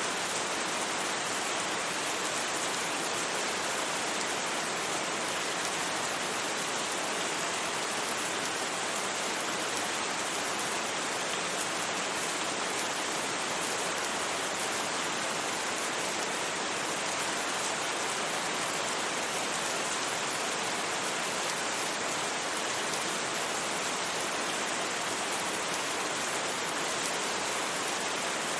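Steady rain falling on a surface, a constant, even hiss with no thunder and no separate drops standing out.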